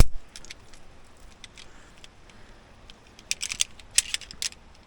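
Climbing hardware being handled: a single sharp metal click right at the start, then a quick cluster of light clinks of carabiners and gear about three seconds in.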